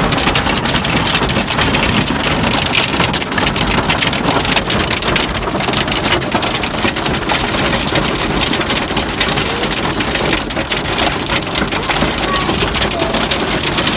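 Heavy hail hammering on a car's roof and body, heard from inside the cabin: a loud, dense, unbroken clatter of many small impacts.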